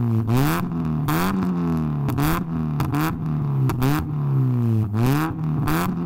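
Mazda MX-5's four-cylinder engine blipped through a loud, homemade exhaust pieced together from eBay pipes. The revs rise sharply and fall back about seven times in quick succession.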